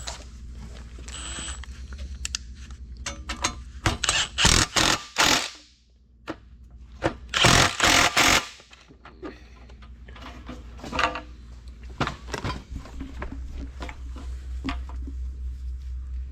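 Pneumatic impact wrench rattling in two loud bursts, about four and seven seconds in, running bolts down on a corn head, with lighter metal clicks and clanks between and a steady low hum underneath.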